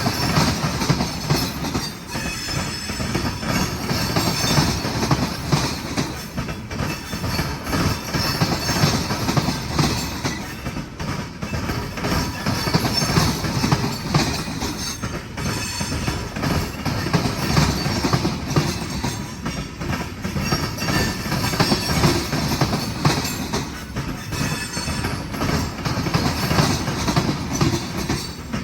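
Freight cars, mostly tank cars, rolling past on jointed track: a steady rumble of steel wheels with repeated clickety-clack over the rail joints.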